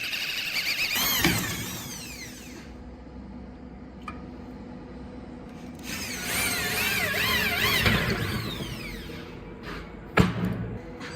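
Power tool running against metal with a high squealing whine that wavers up and down in pitch, in two passes a few seconds each, followed by a sharp knock near the end.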